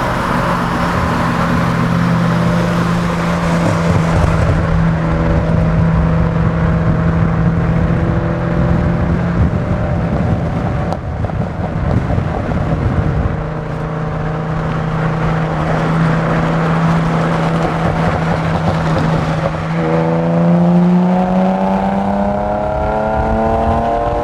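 BMW car engine running on the move with road noise: the engine note holds mostly steady, then rises steadily from about four seconds before the end as the car accelerates.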